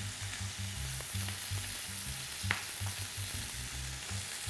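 Beef patties sizzling in a frying pan, a steady hiss, with a single click about two and a half seconds in.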